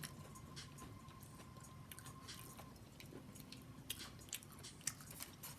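Close-up eating sounds of chewing breaded mushrooms: many small wet clicks of the mouth, with a few sharper ones near the end.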